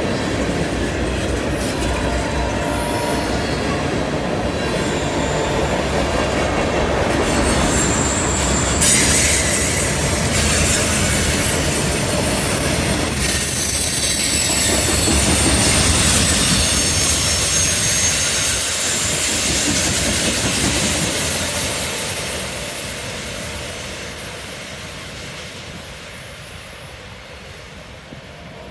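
Freight train tank cars rolling past on a curve, a steady rumble of wheels on rail with high wheel squeal, strongest in the middle. The sound fades over the last several seconds as the end of the train moves away.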